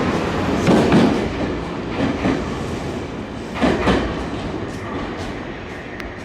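Nankai electric train running along the platform, its wheels clacking over rail joints with a few sharp knocks, the noise fading steadily.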